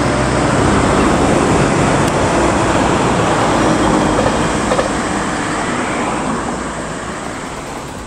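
JR Shikoku 8600 series electric train running past on the track, a steady noise of wheels on rails. It is loudest about a second in and fades toward the end as the train draws away.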